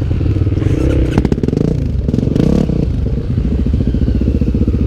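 Honda Tornado trail motorcycle's single-cylinder four-stroke engine, built out to 319 cc, running under load on a dirt trail, the revs shifting up and down. A few sharp clattering knocks come about a second in.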